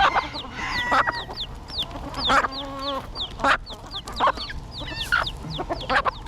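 Chickens feeding in a crowd: hens clucking and squawking about once a second, over the steady peeping of chicks, a high falling cheep about three times a second.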